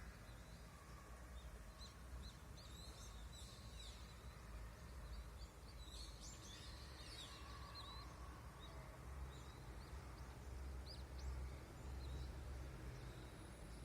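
Wild birds chirping and singing faintly in scattered short bursts of high chirps and trills, over a steady low rumble.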